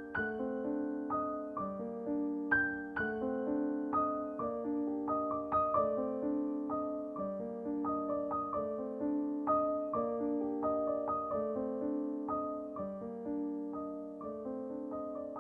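Background music of a gentle solo piano playing a steady flowing pattern of notes and chords, each note struck and fading.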